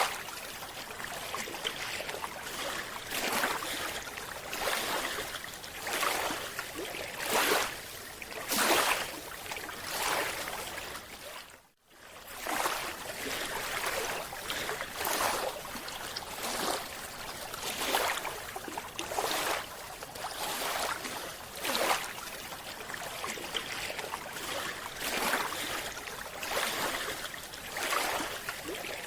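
Rushing water noise that swells and fades about every second and a half, cutting out briefly near the middle.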